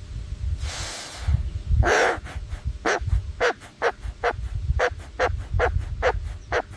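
An animal calling over and over in short calls, about two a second, after one longer call, over a steady low rumble.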